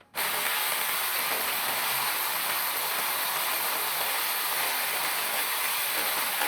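A steady, even hiss that starts abruptly just after a moment of silence and holds unchanged.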